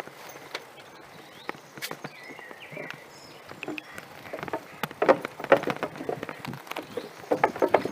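Footsteps on an outdoor path: two bursts of short scuffing clicks, one about halfway through and one near the end.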